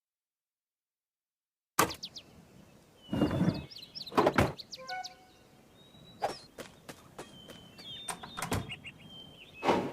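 Silence, then about two seconds in a string of short knocks and thuds begins, with brief high chirps between them, typical of cartoon sound effects.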